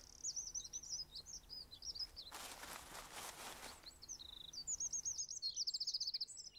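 Songbirds chirping and trilling in rapid repeated phrases, with a brief rustle a little past two seconds in.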